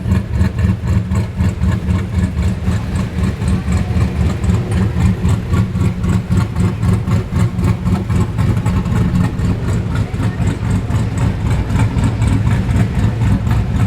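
HSV Maloo ute's V8 burbling at low revs, a steady, deep, rapid pulsing exhaust note.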